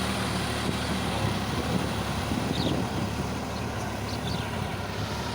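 Sonalika tractor's diesel engine running steadily, with a few faint high chirps over it midway through.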